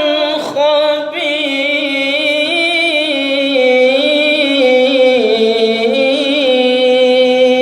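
A man reciting the Quran in the melodic tilawah style, drawing out the verse's closing words in long, slowly wavering ornamented notes. There is a short break about half a second in before the held line resumes.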